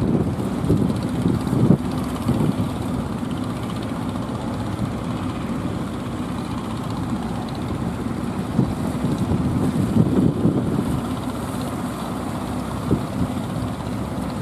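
Strong wind buffeting the microphone: a low, rough rumble that swells and eases in gusts.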